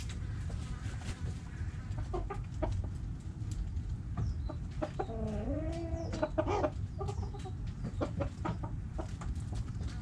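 Backyard chickens clucking in short, scattered calls, with one longer call that bends in pitch about five seconds in, over a steady low rumble.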